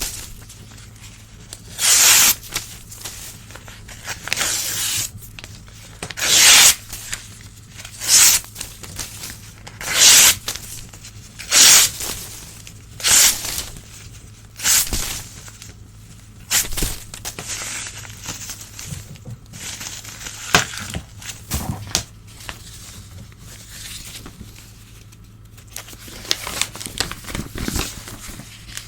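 Old newspaper being torn by hand, one rip after another about every second and a half, each a short dry ripping sound. Over the second half the rips give way to quieter crinkling and rustling of the paper.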